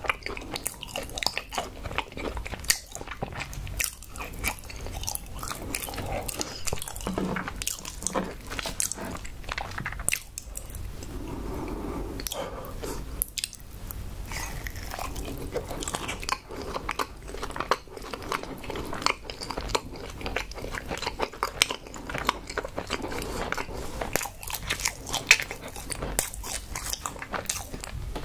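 Close-miked eating: biting and chewing, with many sharp clicks and wet mouth sounds.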